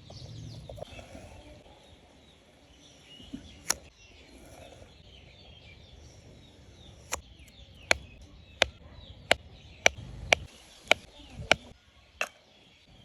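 Sharp chopping strikes on wood: a single blow, then a steady run of about nine, roughly one every 0.7 seconds.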